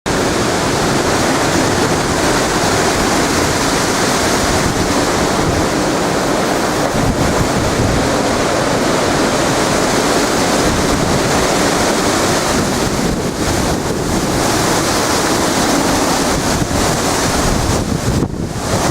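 Hurricane-force wind blowing hard over the microphone: a loud, steady rushing noise that eases briefly near the end.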